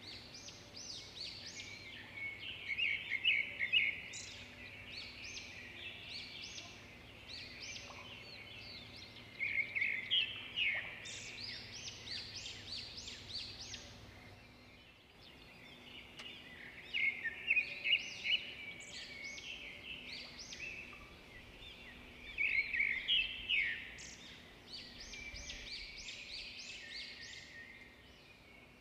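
Birds chirping and calling, many quick high notes overlapping in bursts every few seconds, with a short break about halfway.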